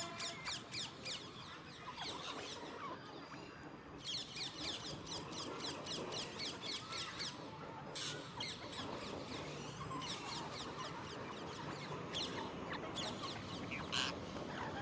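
Alexandrine parakeets chattering: runs of short, high squeaky calls at about five a second, broken by brief pauses and repeated several times.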